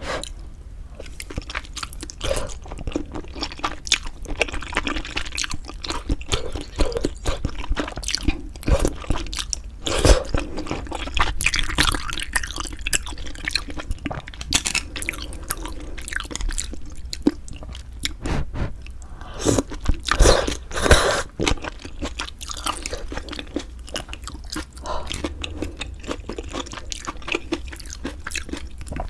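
Close-miked eating of pork bone hangover soup with glass noodles: continuous chewing and biting with wet mouth sounds, with louder bursts about ten seconds and twenty seconds in.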